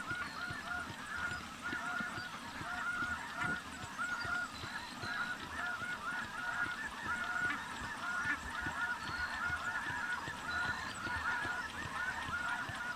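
A steady chorus of snow goose calls: many short, high honks overlapping continuously, as from a large flock or a snow goose electronic caller.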